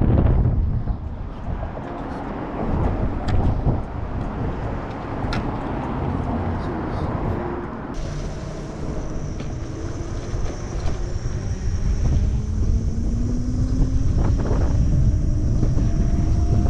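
Wind rushing over the microphone of a moving Monday Motorbikes Gen7 electric moped. About halfway through, a thin electric motor whine joins in and slowly rises in pitch as the moped gathers speed.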